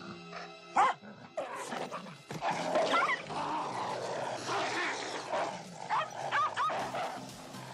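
A dog barking several times in short, irregular calls, the loudest about a second in.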